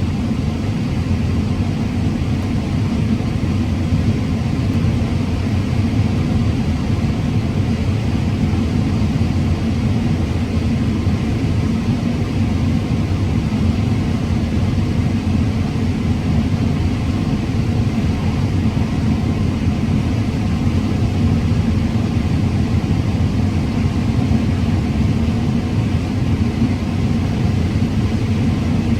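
Combine harvester running steadily while cutting corn: an even, low drone of engine and machinery with no breaks or changes.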